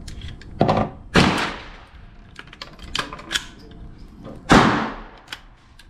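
Shots from a .22LR AR-15 pistol with a CMMG conversion kit. The two loudest reports, about a second in and past four seconds in, each ring out briefly, with lighter metallic clicks between. The kit is failing to run reliably, which the shooter puts down to the 3D-printed buffer.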